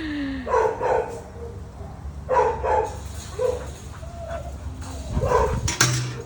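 A dog barking in short, separate barks, mostly in quick pairs, about six in all, with a brief falling whine at the very start.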